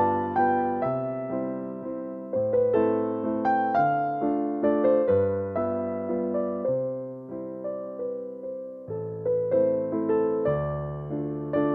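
Background piano music: a gentle melody of struck notes over slow-changing bass notes.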